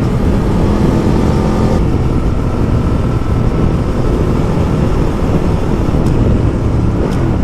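Ducati Multistrada motorcycle on the move: a steady engine drone mixed with loud rushing wind noise.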